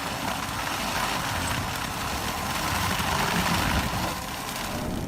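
Self-propelled forestry mulcher running, its heavy engine under load with a dense, steady rush of shredding noise.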